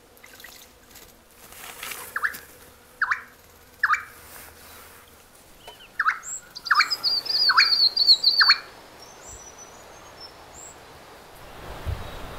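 Small songbirds calling: sharp single call notes repeated at roughly one-second intervals, joined about halfway through by a rapid, high trill that lasts about two seconds.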